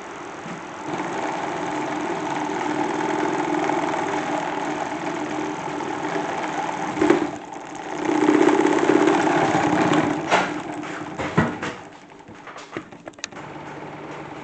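Salad spinner rigged as a toy washing machine, its plastic drum spinning with a steady motor hum and rattle. The hum grows louder with a knock partway through, then drops off near the end with a few clicks.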